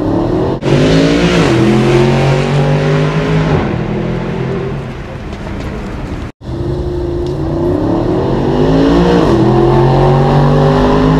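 Mercedes-AMG sports car accelerating hard at full throttle. The engine note climbs and drops back at each upshift, twice in the first few seconds. After a sudden cut about six seconds in, a second run climbs through the gears again, with one more upshift near the end.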